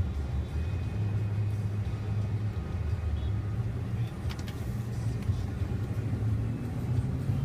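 Steady low engine and road rumble heard from inside a moving car.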